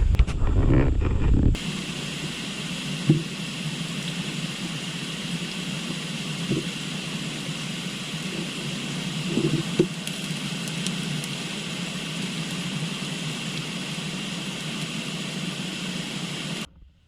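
Steady outdoor ambience, an even hiss with a few soft knocks. It starts with a louder low rumble that cuts off abruptly after about a second and a half, and the whole sound cuts off suddenly near the end.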